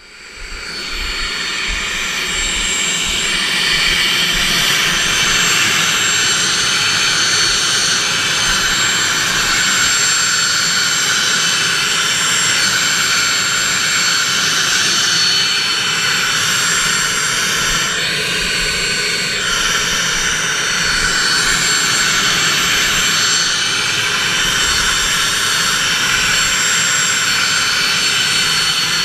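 Helicopter turbine and rotor running steadily, a loud engine whine with a low throbbing of the blades underneath. It swells up over the first couple of seconds, then holds level.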